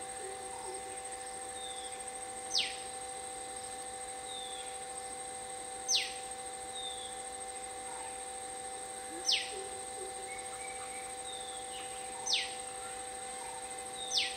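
A bird repeating a sharp, quick downward-sweeping whistle five times, about every three seconds, over a steady hum.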